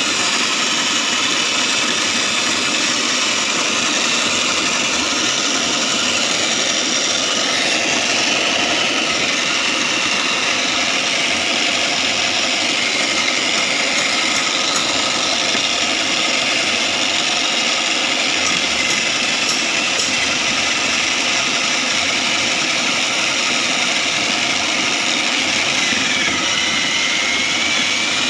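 Homemade foam shredding machine running steadily with a constant motor whine. Near the end the whine dips briefly and climbs back up.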